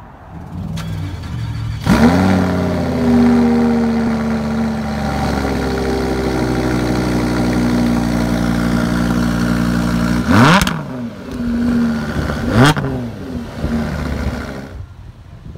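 Lamborghini Huracán's V10 starting: it cranks briefly, fires with a loud flare about two seconds in, then settles into a high cold-start idle that slowly drops in pitch. Two quick, sharp revs come about ten and twelve and a half seconds in, each falling back to idle.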